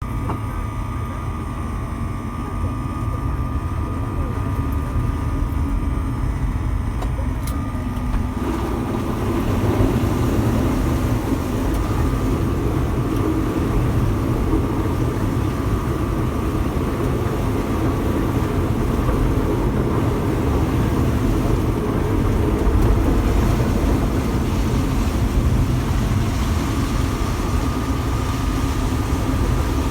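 Motor vehicle running, a steady low rumble with a constant hum, growing fuller about eight seconds in.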